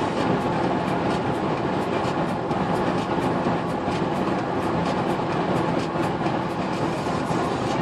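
A train running steadily: a continuous rumble with faint, rapid ticking over it.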